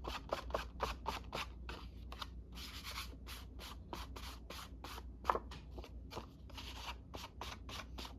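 Quick, scratchy rubbing strokes against a paper card, about three to four a second, from a craft tool being scrubbed back and forth across it.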